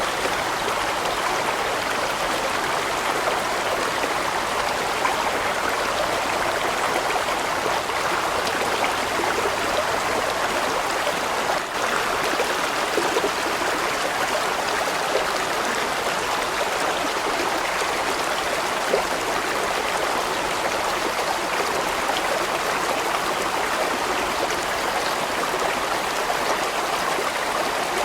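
Large mountain stream flowing steadily over rocks: an even, continuous rushing and babbling of water.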